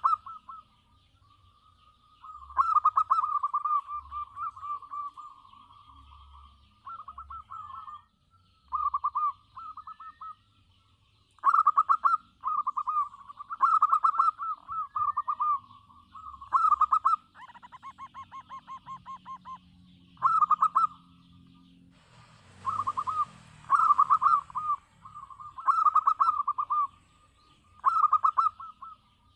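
Local zebra dove (perkutut) cooing over and over, each phrase a rapid trill of coos about a second long, with short pauses between phrases. A brief hiss comes about three quarters of the way through.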